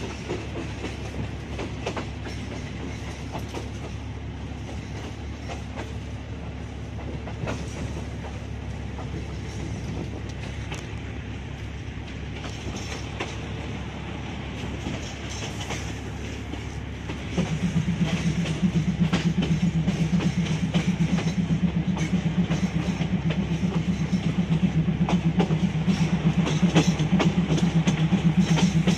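Running noise of a moving train heard from on board: a steady low rumble with scattered sharp clicks of wheels over rail joints. About two-thirds of the way through, a louder low pulsing drone joins in and holds.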